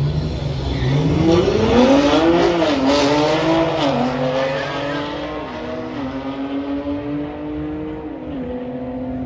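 Performance cars accelerating hard in a drag race, engine revving up through the gears with several upshifts, loudest about two to three seconds in.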